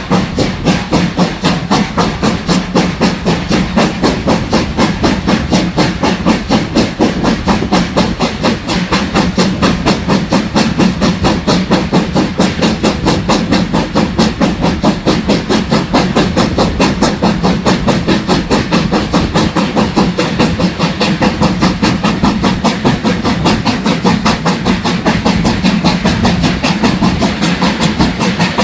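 BR Standard class 4 4-6-0 steam locomotive 75014 "Braveheart" working a train, its two-cylinder exhaust chuffing in a steady rapid beat of about four or five a second, with a hiss of steam.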